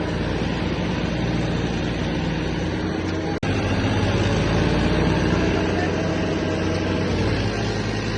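Tractor diesel engine running steadily, with a brief drop-out about three and a half seconds in, after which it is slightly louder.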